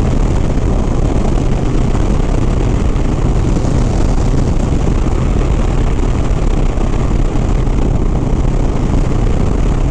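Harley-Davidson Sport Glide's V-twin engine running steadily at highway speed, under the constant rush of wind over the microphone.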